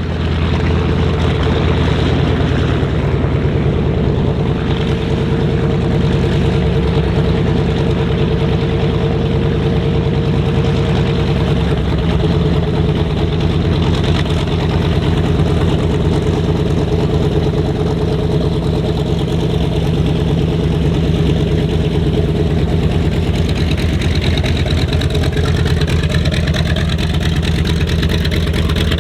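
A large piston engine running steadily at a constant speed, with a rapid, even firing pulse.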